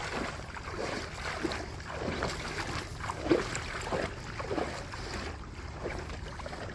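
Rushing river water with wind buffeting the microphone, and a few irregular soft knocks, the loudest about three seconds in.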